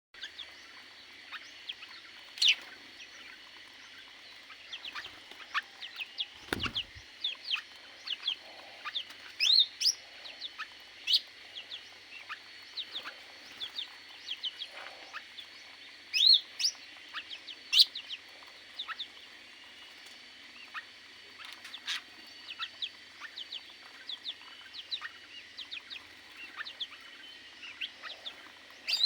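A flock of aviary birds chirping, with many short, rapid calls overlapping and a steady faint high tone underneath. There is one low thump about a quarter of the way through.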